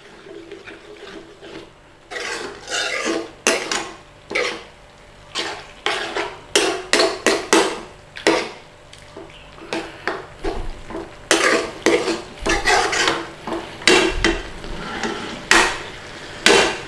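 A thick tomato curry sauce being stirred in a pan, with irregular scraping strokes of the utensil against the pan's base.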